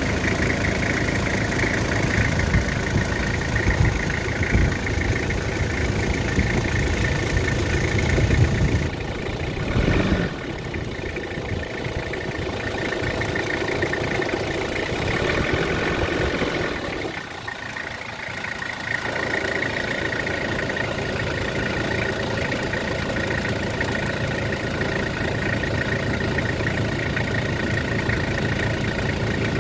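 Toyota 5L four-cylinder diesel engine in a 1998 Hilux idling steadily. The sound changes around ten seconds in and dips briefly a little past halfway before settling back.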